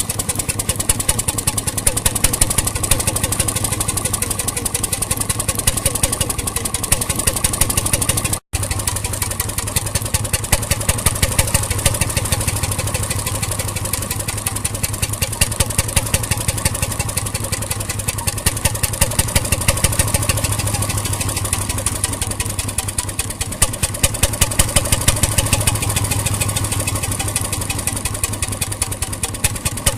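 1921 RSM 3½ HP hotbulb marine engine running steadily: a fast, even stream of knocks and clatter over a low hum. The sound cuts out for an instant about eight and a half seconds in.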